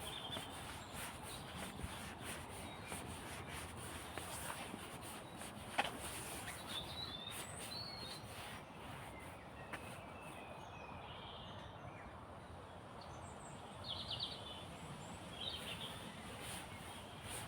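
Small birds chirping and calling on and off over a steady outdoor hiss, with a quick run of repeated notes a little before the end. There is a single sharp click about six seconds in.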